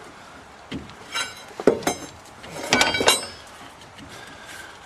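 Steel crowbar prying and knocking against a metal part of a Ford F-350's front axle: a handful of sharp metallic clinks and knocks, some of them ringing, between about one and three seconds in.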